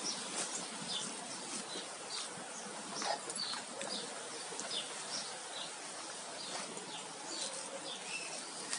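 Small birds chirping: short, high chirps scattered every half-second or so over steady outdoor hiss.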